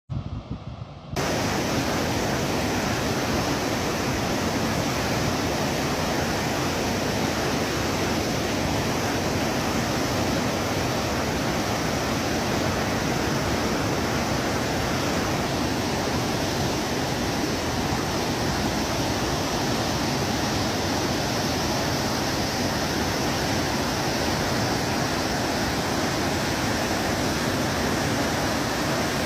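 Steady, loud rush of water pouring at a reservoir, as at a spillway or outflow, beginning abruptly about a second in.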